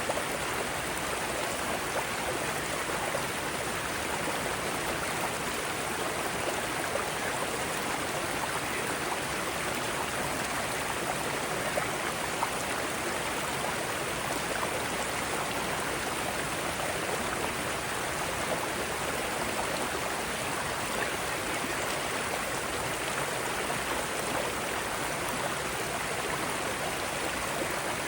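Mountain stream water cascading over rocks: a steady, even rush of flowing water.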